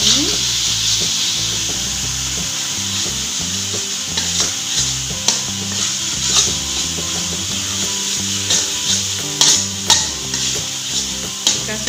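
Blended chilli, shallot and garlic spice paste sizzling in hot oil in a wok, being sautéed until fragrant. A spatula stirs it, and the scrapes and clicks against the pan grow more frequent from about four seconds in.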